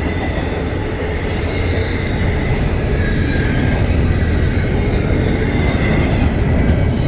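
Westbound CSX intermodal freight train passing at speed: a steady rumble and rattle of wheels on the rails, growing slightly louder, with a faint steady high tone over it.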